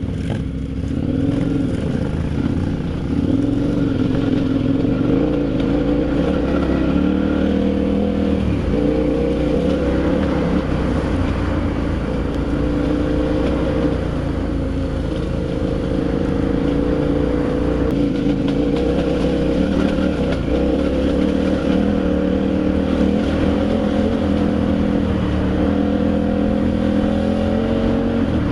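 Adventure motorcycle engine running under way, its pitch shifting up and down with the throttle.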